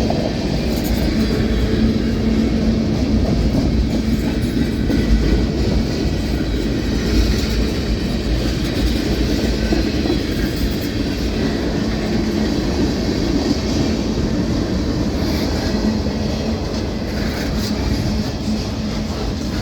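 Freight cars of a Union Pacific manifest train rolling past steadily on the rails.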